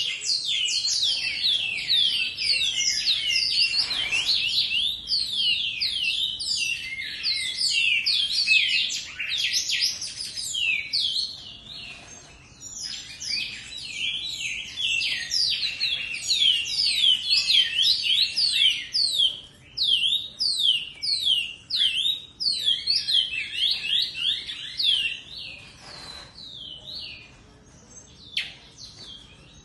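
Bicudo (great-billed seed-finch) singing: a fast, continuous run of high, downward-sliding whistled notes, thinning after about 19 seconds into separate phrases with short pauses.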